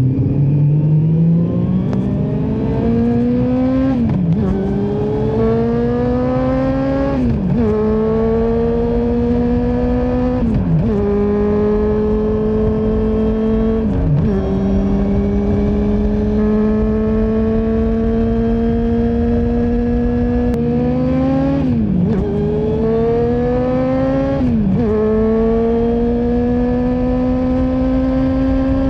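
Honda CB400 Super Four's inline-four engine through a Yoshimura full exhaust, accelerating through the gears. The pitch climbs and drops back sharply at each upshift, every three to four seconds, then holds steady at cruising speed for several seconds before more climbs and shifts.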